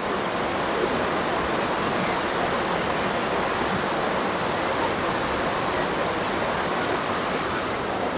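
Heavy rain pouring steadily, an even, unbroken rush of falling water.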